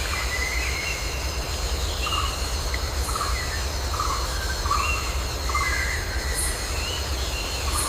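Jungle ambience: a steady high insect drone over a low rumble, with short animal calls repeating about once a second.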